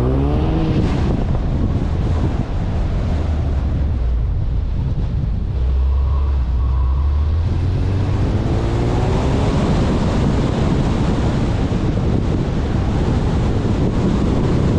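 A car's engine pulling hard with its pitch climbing, once just after the start and again about halfway through, under heavy wind noise on the microphone and a steady rumble.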